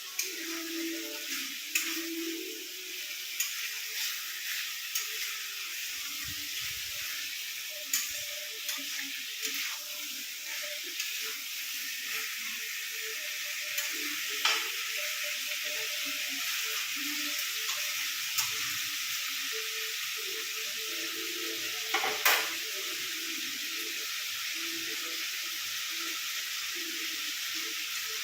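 Chicken pieces frying in hot oil in a pan with a steady sizzle, while a spatula stirs and scrapes against the pan, clicking and knocking now and then. The chicken is being braised (kosha) over a raised flame until the oil separates.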